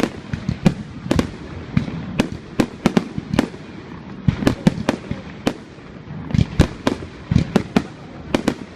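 Fireworks going off in a rapid, irregular string of sharp cracks and bangs, several a second, with deeper booms among them. The bangs thin out briefly a few times before picking up again.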